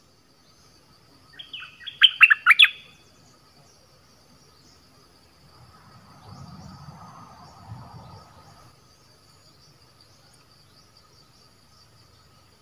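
A caged dok taeng bird, the kind used as a trapping decoy, gives one short loud burst of about half a dozen quick falling chirps a couple of seconds in. A faint rustle follows a few seconds later, over a steady insect drone.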